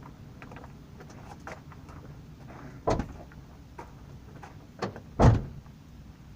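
Sharp thumps over a low steady rumble: one about three seconds in, a lighter knock just before five seconds, and the loudest one shortly after.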